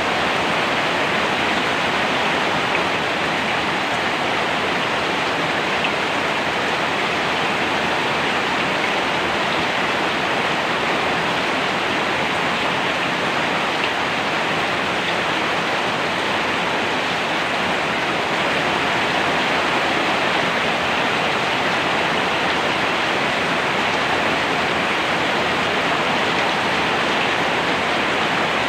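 Heavy rain falling steadily, a dense, even hiss with no distinct drops standing out.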